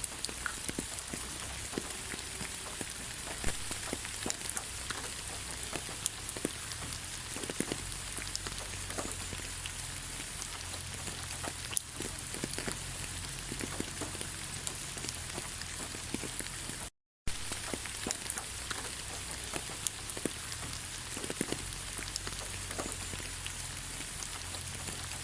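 Gentle rain falling in a forest: a steady hiss with scattered single drops landing close by. The sound cuts out completely for a split second about two-thirds of the way through.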